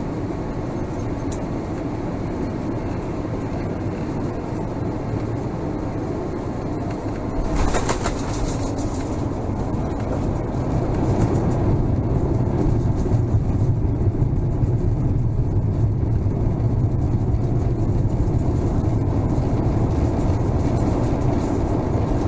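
Airbus A350-1000 cabin rumble during landing. About seven and a half seconds in there is a brief rattle, likely the touchdown, and after it the rumble grows louder as the jet rolls out on the runway.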